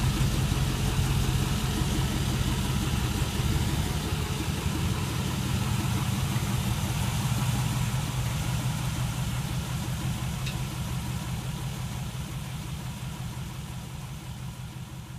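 V8 engine in a Chevy LUV pickup idling steadily with a low, even note, fading gradually toward the end.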